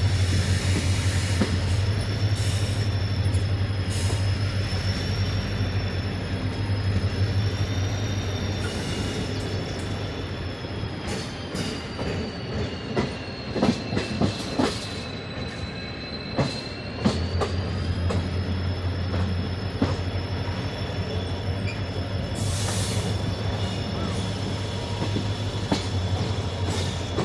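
Indian Railways passenger train running along the track: a steady low rumble and hum with a high, slowly wavering whine above it. Through the middle stretch come sharp knocks and clatter, as from the wheels passing rail joints.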